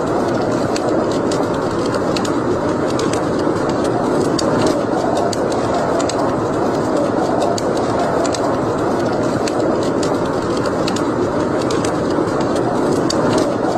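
Wood fire burning in a fireplace: a steady rushing noise with frequent sharp crackles and pops scattered throughout.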